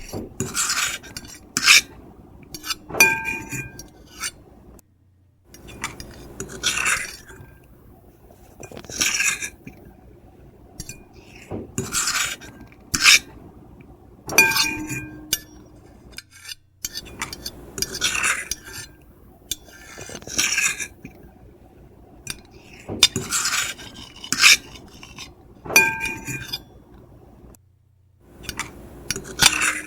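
Metal fork and knife scraping across a plate in repeated strokes, some with a brief high squeal of the plate ringing. The same run of strokes repeats about every twelve seconds, with a short silent gap between repeats.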